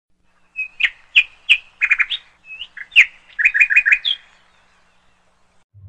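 Bird chirping: a run of short, sharp chirps, some coming in quick runs of three or four, that stops about four seconds in.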